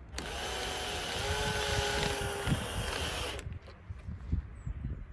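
Power drill running for about three seconds with a whine that rises slightly in pitch, starting and stopping abruptly, followed by a few light clicks.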